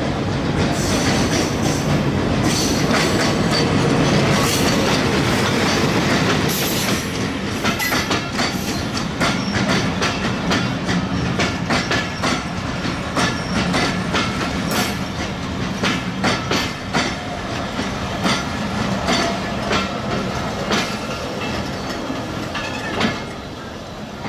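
A diesel-hauled passenger train passes close by. The locomotive's engine rumbles heavily for the first several seconds, then the coaches roll past with a running clickety-clack of wheels over the rail joints, fading near the end.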